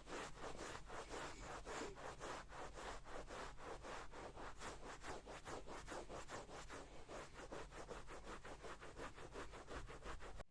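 Rapid back-and-forth scrubbing of a surface, about five strokes a second, steady throughout.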